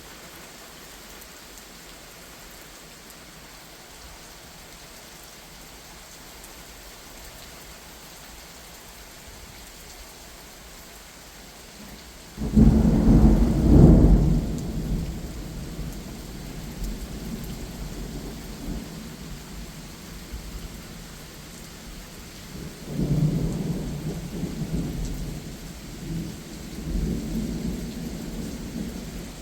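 Steady rain, then about twelve seconds in a sudden loud thunderclap that rumbles on and fades over several seconds. A second, weaker roll of thunder comes near the end.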